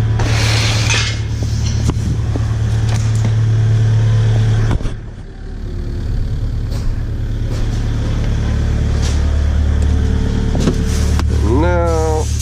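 Kubota KX057-5 excavator's diesel engine running with a steady low hum. Its note drops and quietens about five seconds in, then picks back up. There is a brief hiss near the start and a short rising whistle-like tone near the end.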